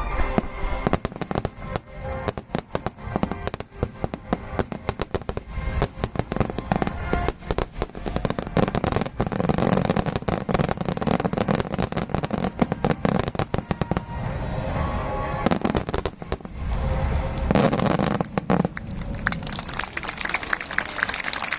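Fireworks bursting and crackling in rapid, dense succession over music, with a thick, high crackle building near the end.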